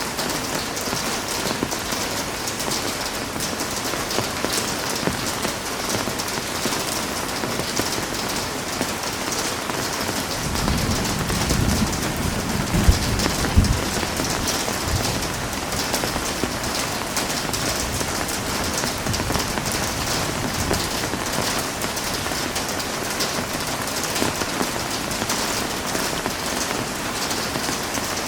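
Heavy rain falling steadily, a dense hiss of many drops spattering on surfaces. About ten seconds in, a low rumble swells for several seconds and then fades.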